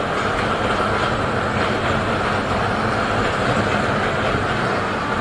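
A train rolling along the track right beside the road, mixed with the steady wind and engine noise of a motorcycle riding alongside it.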